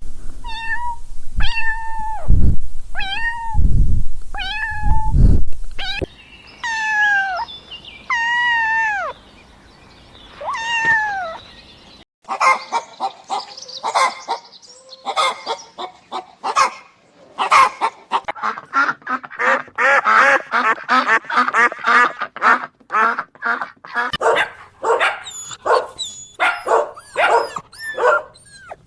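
A run of domestic animal calls: cat meowing, with long meows that fall in pitch a few seconds in, followed by a dense stretch of many rapid, overlapping calls from about the middle onward.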